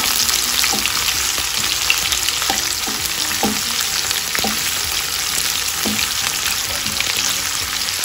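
Sliced onions sizzling in hot mustard oil in a frying pan, stirred with a wooden spatula that scrapes and knocks against the pan every second or so. The onions are being fried towards light brown.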